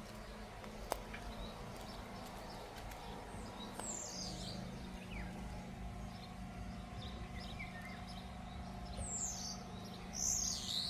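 Wild birds chirping outdoors: a few short, high calls sweeping downward, about four seconds in and again near the end, with fainter chirps between, over a steady low hum and quiet background noise.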